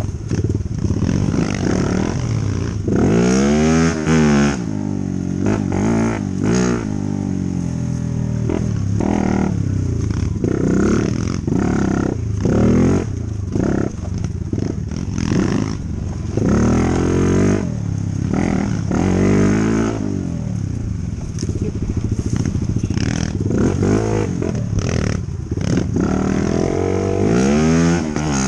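Dirt bike engine being ridden, revving up and falling back over and over, its pitch rising and dropping every few seconds.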